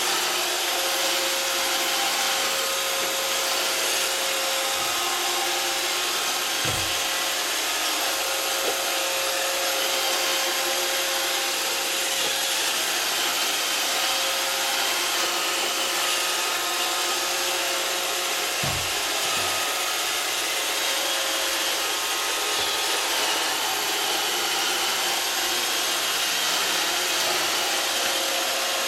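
iRobot Roomba 560 robot vacuum running, its motor and brushes making a steady whirring hum, with a few short low thumps at about 7, 19 and 23 seconds in.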